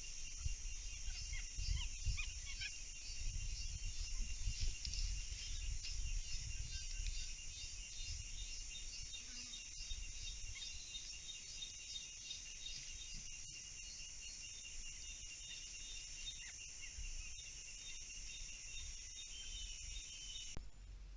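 A steady, high-pitched insect chorus trilling, with a few short chirping calls in the first few seconds over an uneven low rumble; it all cuts off suddenly near the end.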